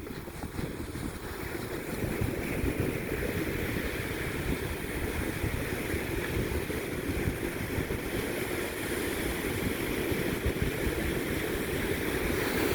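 Steady rush of wind and ocean surf, with wind buffeting the microphone, getting a little louder about two seconds in.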